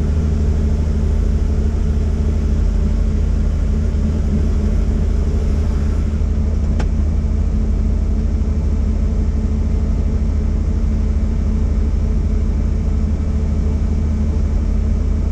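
Helicopter engine and rotor running steadily: a loud, even low drone that holds constant throughout, with a faint single click about seven seconds in.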